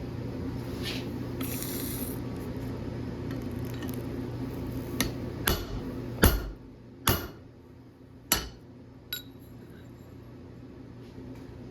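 About six sharp metal-on-metal clanks at uneven intervals, each ringing briefly, the loudest about six seconds in. Under them is a steady hum that drops back after the loudest clank.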